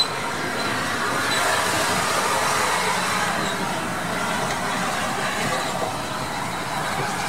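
A steam train on the move, a steady rumble and hiss of locomotive and carriages.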